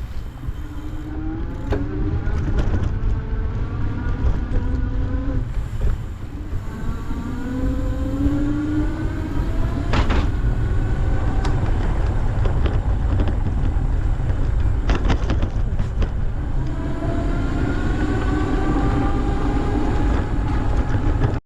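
Heavy low rumble of wind on the microphone while riding, overlaid by a mechanical whine that rises in pitch several times, and a few sharp clicks.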